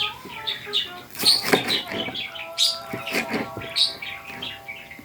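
Birds chirping repeatedly in short, quick calls, with a few brief rustling bursts between them.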